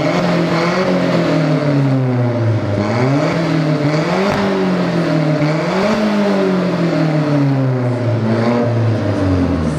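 Alfa Romeo 4C's turbocharged 1.75-litre four-cylinder engine revved again and again, its pitch climbing and dropping back several times.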